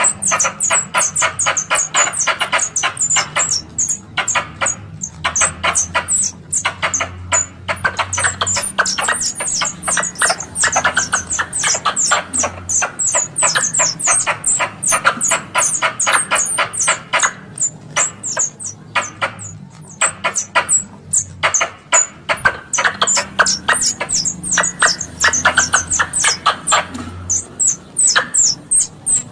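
Squirrel lure call: a squirrel's chattering call, fast runs of sharp chips at about six a second, broken by short pauses. It is played to draw plantain squirrels in.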